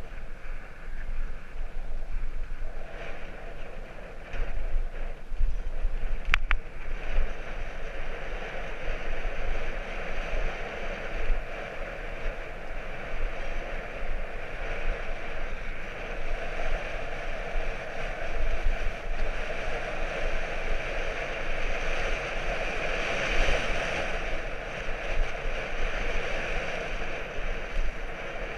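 Wind buffeting the microphone over the steady rush of a bicycle's tyres rolling on the road while riding, with a single sharp click about six seconds in.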